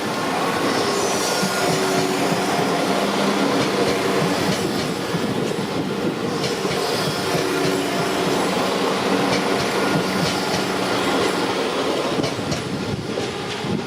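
West Midlands Railway diesel multiple unit passing close by: a steady rumble of engines and wheels on the rails with occasional clicks, building over the first couple of seconds and easing a little near the end.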